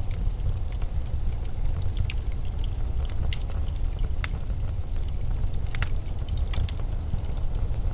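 Steady low blizzard wind rumble, with scattered sharp crackles and ticks over it at irregular moments.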